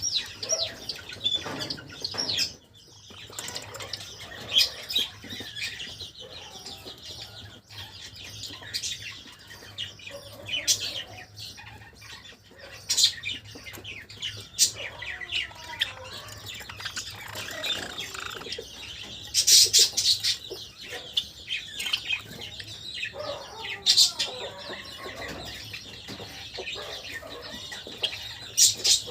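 Pet Java sparrows chirping and trilling in many short notes, with brief bursts of fluttering wings, the loudest about two-thirds of the way through.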